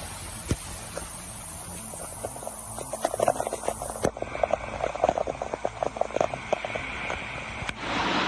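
Steady noisy hiss with many scattered short clicks and taps, the sound changing abruptly twice as one amateur clip cuts to the next.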